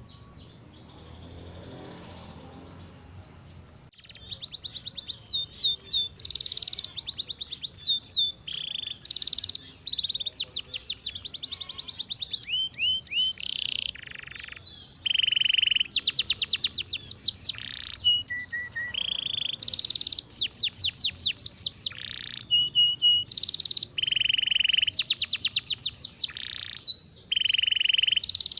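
Domestic canary singing: after a quiet start, about four seconds in it launches into a long song of rapid high trills and rolling phrases, each run of repeated notes switching to the next.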